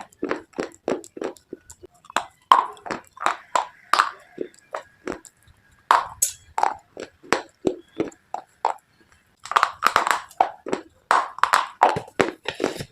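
Close-miked crunching of someone biting and chewing brittle earthy slate pieces, a fast run of sharp crunches about three a second with a brief pause near the end.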